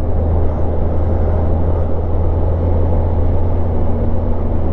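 Motorcycle riding at a steady speed: a constant low engine drone under steady wind rush on the microphone.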